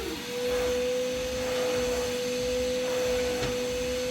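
A steady hum at one even pitch, with a fainter lower tone beneath it.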